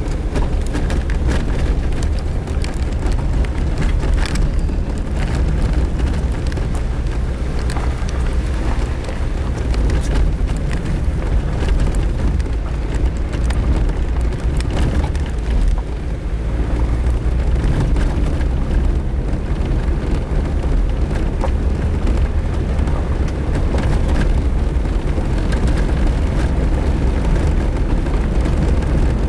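Suzuki Jimny driving on a rough dirt road: a steady low rumble of engine, tyres and wind, with scattered knocks and rattles from the uneven ground.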